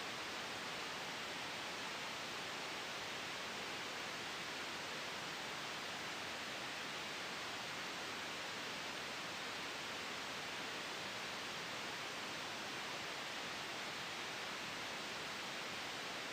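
Steady, unchanging hiss of sleep white noise blended with a soft wind ambience, even across the whole stretch with no gusts or changes.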